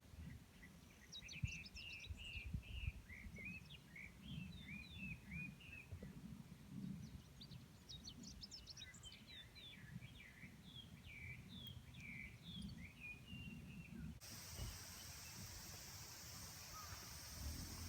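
A songbird singing faintly in two long runs of quick chirps and warbled notes, over a low rumble of wind on the microphone. About fourteen seconds in, the sound cuts to a steady hiss.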